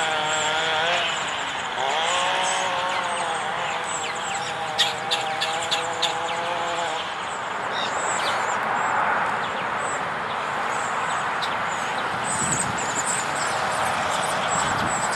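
Birds chirping over a steady outdoor background, with a pitched droning sound that rises once near the start, holds steady for several seconds and dies away about seven seconds in.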